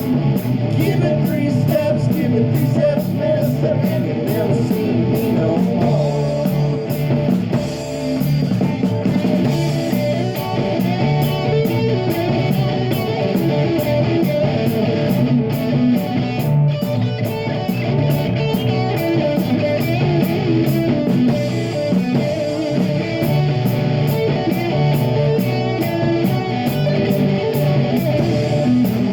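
Live rock band playing: electric guitar and drum kit with a steady cymbal beat.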